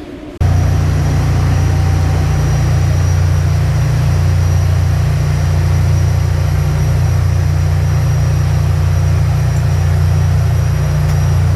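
Loud, steady engine-room machinery drone, a deep constant hum with a faint high whine over it, starting abruptly about half a second in.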